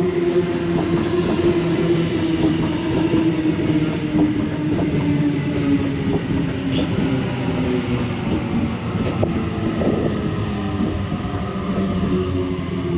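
Sydney Trains B-set (Waratah Series 2) electric suburban train running at the platform: a steady rumble under a motor whine that sinks slightly in pitch as it slows, with a few sharp clicks near the middle.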